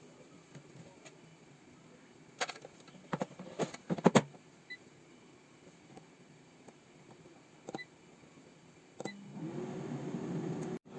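Several sharp clicks and knocks and a few short faint beeps, then a steady machine hum starts about nine seconds in.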